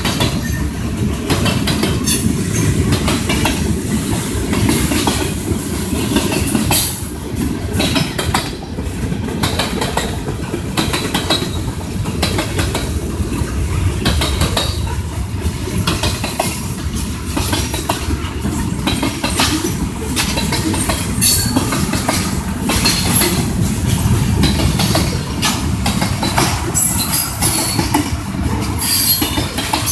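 Freight train of covered hopper and tank cars rolling past: a steady low rumble of steel wheels on rail, broken by frequent irregular clicks and clanks.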